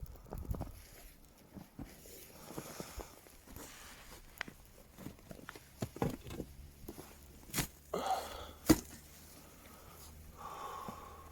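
Scattered clicks and knocks with short bursts of rustling, the loudest a sharp knock nearly nine seconds in.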